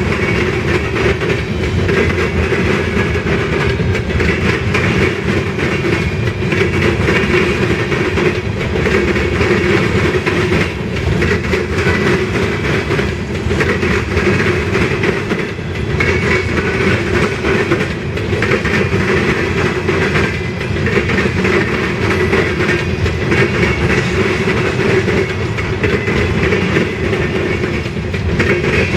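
Freight train cars rolling past on the rails: a steady rumble of steel wheels on rail with a clickety-clack of wheels over the rail joints.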